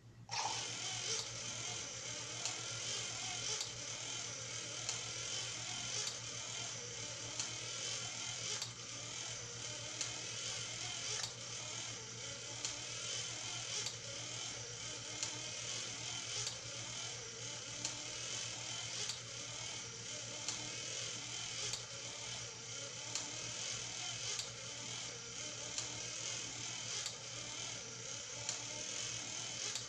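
Small electric motor driving a train of plastic toy-kit gears, starting abruptly just after the beginning and then running steadily, with a sharp click about every second and a quarter.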